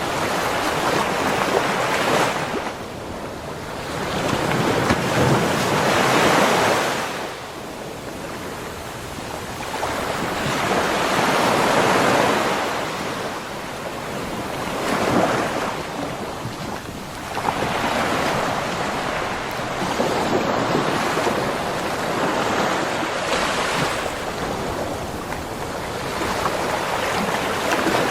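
Ocean waves breaking and washing up on a beach shore, the surf swelling and falling back every few seconds.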